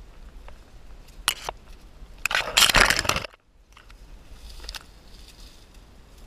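Scraping and crunching of a hiker scrambling over rock and brush, close to the camera microphone: two sharp clicks, then a loud scraping rush of about a second that cuts off abruptly.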